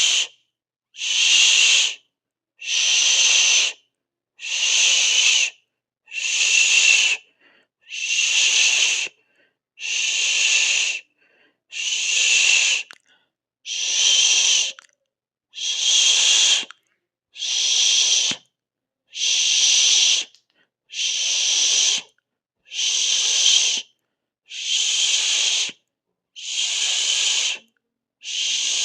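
A person hissing 'shhh' through the teeth over and over, each shush lasting a little over a second with a short silent gap, about one every second and a half to two seconds.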